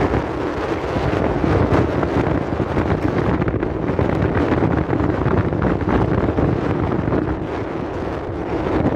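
Strong wind buffeting the microphone: a dense, gusting rush of noise with a low rumble beneath.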